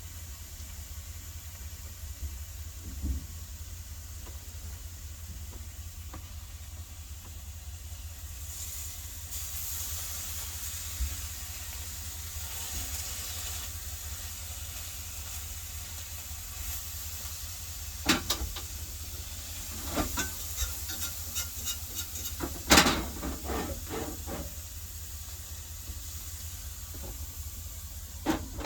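Steaks sizzling in a frying pan, the hiss swelling for several seconds, over a steady low hum. In the second half come a series of sharp clicks and knocks, the loudest about two-thirds of the way in.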